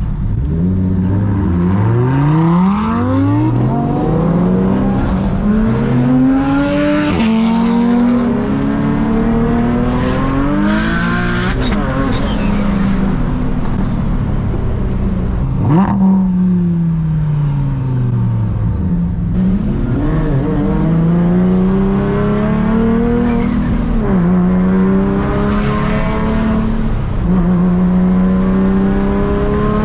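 Big-turbo Nissan 350Z's VQ35HR V6 pulling hard through the gears: the engine note climbs in each gear and drops back at each shift, with turbo hiss rising over the top. About halfway through the note falls away as the car slows, then it pulls up through the gears again.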